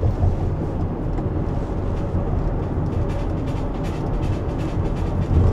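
Steady low road and engine rumble inside a moving van's cabin, with faint irregular rattling throughout. The rattle comes from the back, where the driver thinks something has come loose.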